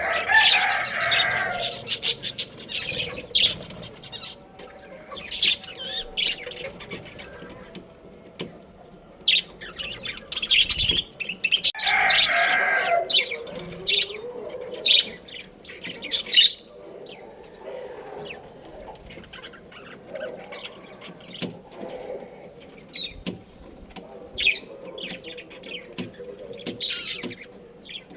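Budgerigars chirping in many short, high calls, with two longer, louder bursts of wing flapping, one about a second in and one around twelve seconds in.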